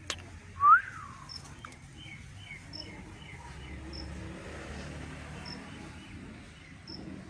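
A parrot gives one loud whistled call that rises then falls in pitch about a second in, followed by a run of softer short chirps. A faint high chirp repeats about every second and a half.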